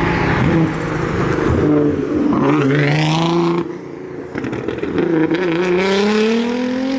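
Car engine revving hard as the car accelerates: the pitch climbs for a couple of seconds, cuts off suddenly about three and a half seconds in, then climbs again near the end, as in a pull through the gears.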